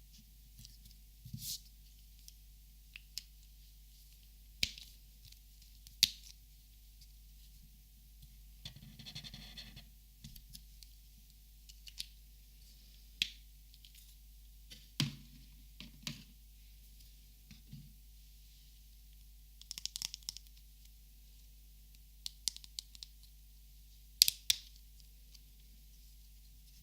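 Plastic Copic markers clicking and tapping as they are handled and sorted, in scattered single clicks with a few quick clusters, and a short rustle about nine seconds in. A faint steady hum lies beneath.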